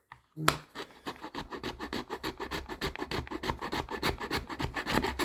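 Hand file rasping back and forth against a hard plastic case, widening a cut-out opening, in quick, even strokes that start about half a second in.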